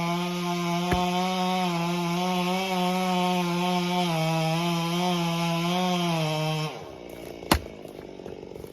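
Two-stroke chainsaw running at high speed with a slight wavering in pitch, as when cutting firewood. The engine note drops away suddenly about seven seconds in, followed by a single sharp click.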